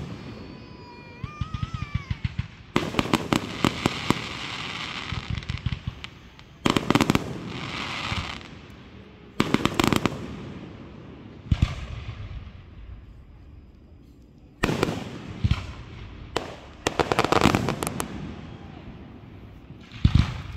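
Aerial fireworks shells bursting overhead: about seven loud booms, two to three seconds apart, each followed by a spray of crackling.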